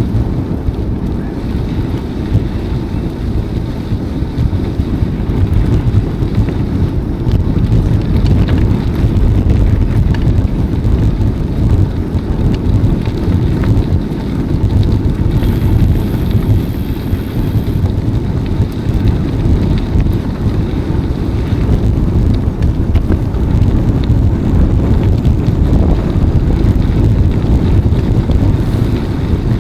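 Wind buffeting the microphone of a camera on a moving bicycle: a loud, steady low rumble with no pauses.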